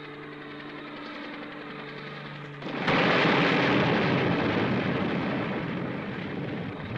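A steady low hum, then a sudden loud explosion a little under three seconds in, its noisy rumble fading slowly over several seconds: the downed helicopter blowing up.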